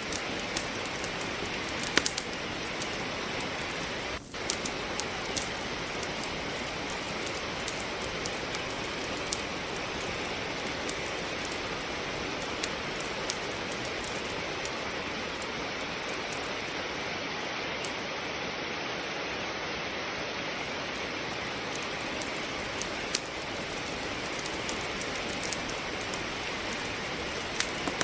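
Steady rain, an even hiss, with scattered sharp crackles and pops of burning firewood in a fireplace.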